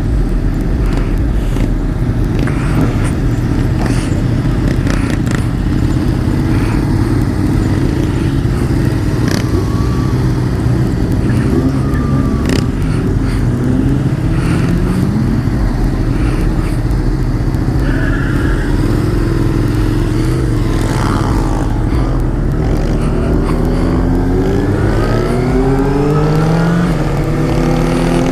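Motorcycle engine running under way with heavy wind rumble on the microphone; in the last few seconds the engine pitch climbs steadily as the bike accelerates.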